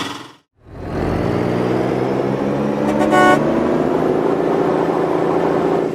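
Motor vehicle engine running steadily, its pitch slowly climbing, with one short horn honk about three seconds in. The engine starts in after a moment of silence near the start.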